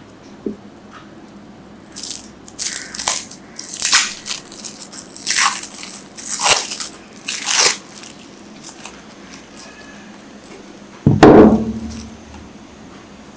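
Knife cutting through a block of green glycerin soap: about six crisp cutting strokes in quick succession, then one louder thump near the end.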